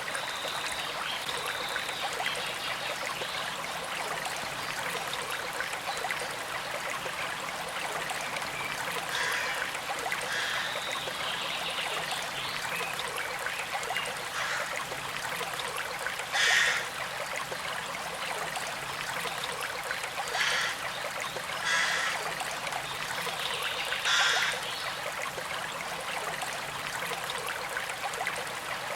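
Small creek flowing and trickling steadily, with a few brief louder gurgles or splashes in the second half.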